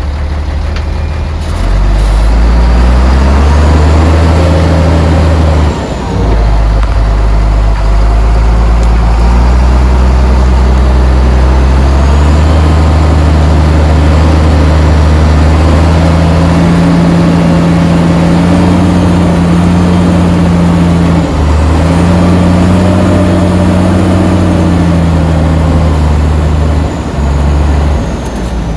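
Heavy diesel engine of earth-moving machinery working under load. Its pitch steps up and down every few seconds as the throttle is opened and eased off, with a brief drop about six seconds in and another dip near the end.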